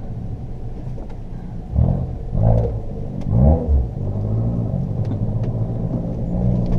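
Car engine running, heard from inside the cabin while driving, a steady low hum. A few brief louder low swells come between about two and four seconds in.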